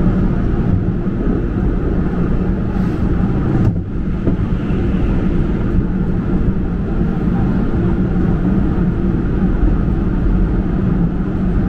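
Gyeongui–Jungang Line electric commuter train running, a steady low rumble of wheels on rails, with a brief dip and a single click about four seconds in.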